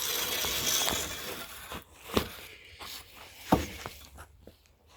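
Scraping and crunching noise for about the first second, then two sharp knocks about a second and a half apart.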